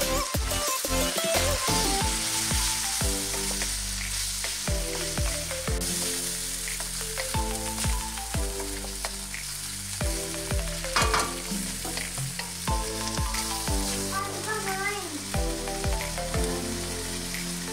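Mutton pieces and yoghurt sizzling in hot oil in a pan over high heat, stirred and scraped with a wooden spatula. Background music with a regular beat plays along.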